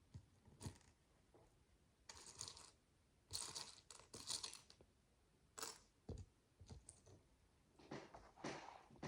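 Micro building bricks being handled: a few short rustling, rattling bursts and light clicks of tiny plastic pieces.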